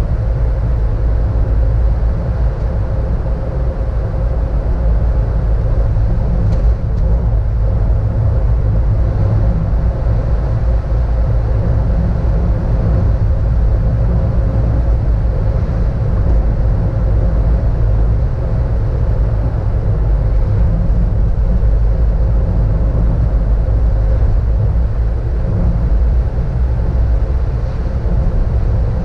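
Car driving along a road: a steady low rumble of engine and tyre noise, with a faint steady hum above it.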